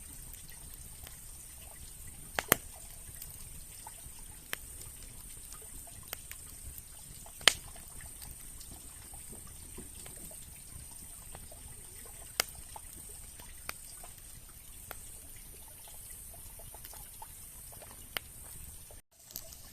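Wood campfire burning, with sharp irregular crackles and pops over a steady high hiss. The sound drops out completely for a moment near the end.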